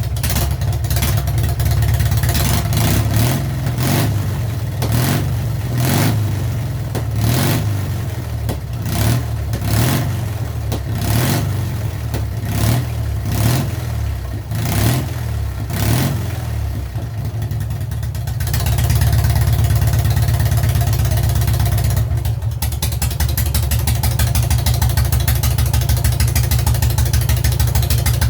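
Freshly rebuilt Soviet K-750 750 cc side-valve flat-twin motorcycle engine running, its throttle blipped in short revs about once a second. About two-thirds of the way in it settles into a steady fast idle.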